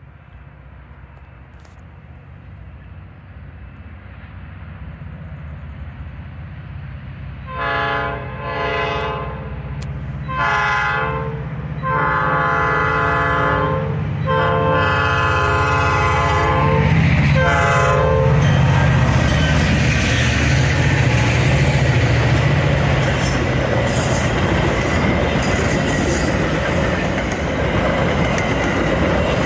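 Metra commuter train approaching with its diesel locomotive's engine growing steadily louder, then its horn sounding about five blasts, the third and fourth the longest, followed by the train passing close by with rolling wheel-on-rail noise and clatter.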